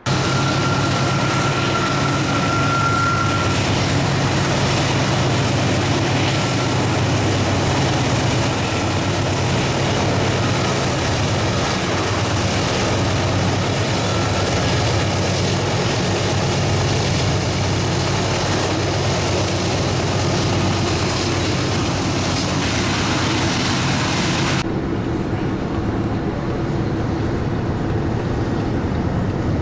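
Freight train with diesel locomotives running by: the locomotive engines hum steadily under the broad rumble and rattle of the train. The higher-pitched part of the noise drops away suddenly near the end.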